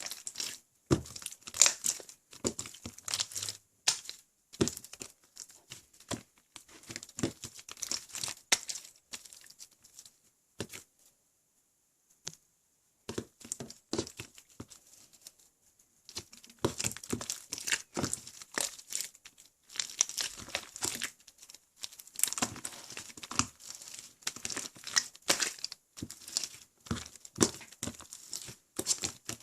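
Slime mixed with clay being squished, stretched and pressed by hand, giving dense runs of sticky clicks and pops. There is a pause of a few seconds about ten seconds in, then the squishing resumes.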